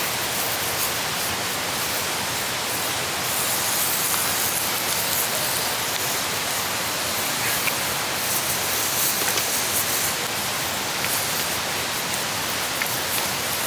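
Food frying in a pan over a campfire: a steady sizzling hiss with a few faint crackles.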